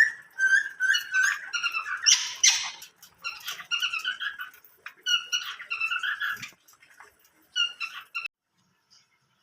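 Small cage birds chirping and calling in quick clusters of short, high calls, falling silent about eight seconds in.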